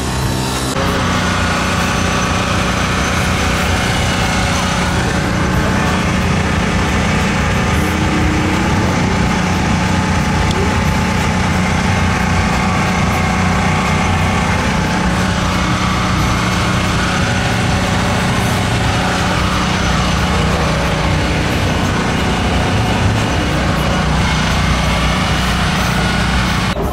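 Turbocharged four-cylinder engine idling steadily, an even, unchanging engine note.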